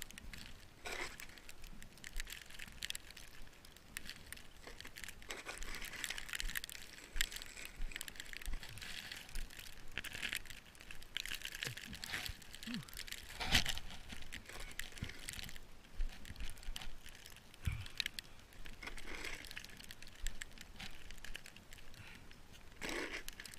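Snow crunching in irregular bursts, with a few sharp knocks, the loudest about halfway through.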